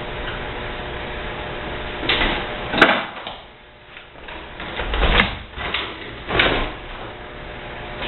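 Dishwasher parts knocked, slid and pulled while the machine is taken apart: two bursts of clattering and scraping, each with a sharp click, over a steady hum.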